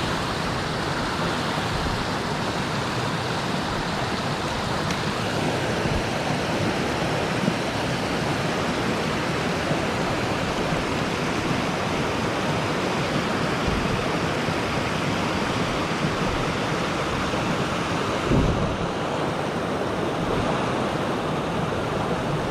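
Steady rush of water pouring over a dam, an even roar with no breaks. A short low bump sounds once near the end.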